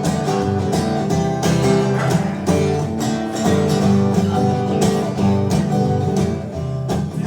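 Live acoustic guitar strummed in a steady rhythm, an instrumental break between sung lines of the song.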